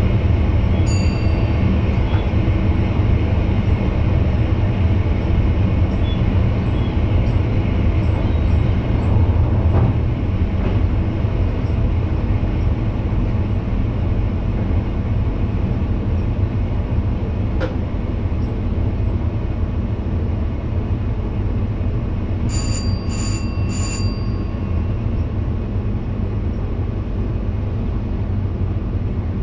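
NS VIRM double-deck electric train running, heard from the driver's cab: a steady low rumble of wheels on rails and traction equipment. Three short electronic beeps sound close together about three-quarters of the way through.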